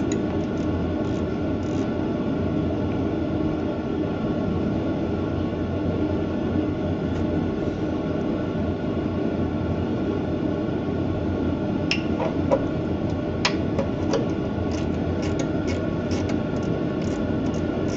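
A steady mechanical drone with several held tones, with a few sharp light clicks and knocks, most clearly about twelve to fourteen seconds in and again faintly near the end.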